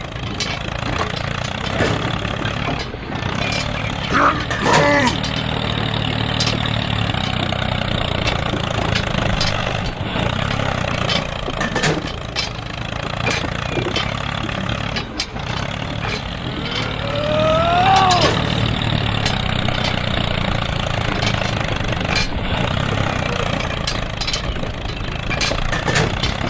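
Engine running steadily throughout. Two brief rising-and-falling pitched sounds come about four seconds in and again around seventeen seconds in.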